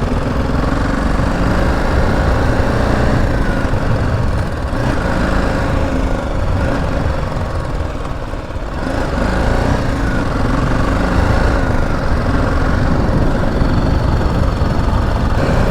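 BMW G 310 GS's single-cylinder engine running as the motorcycle rides over a rough unpaved road, with a steady low rumble throughout. The engine eases off about halfway through, then picks up again.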